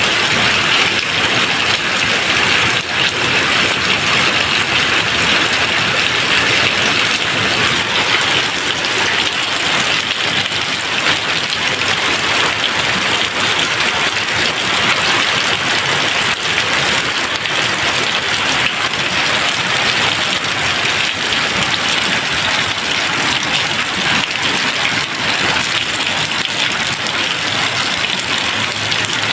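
Steady rain falling, a dense, even hiss of drops, with no thunder.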